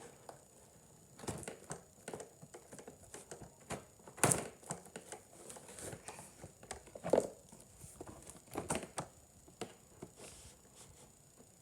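A toy's cardboard box and packaging being handled and opened: scattered rustling and crinkling with occasional knocks, the loudest about four seconds in.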